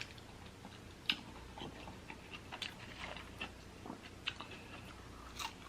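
Faint close-up chewing of a Philly cheesesteak sandwich: soft, irregular mouth clicks and smacks, the sharpest about a second in.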